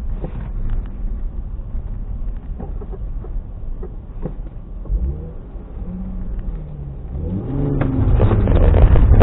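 Car engine heard from inside the cabin, running low at first, then revving up and down from about halfway through and growing much louder near the end as the car accelerates hard, with a few sharp clicks along the way.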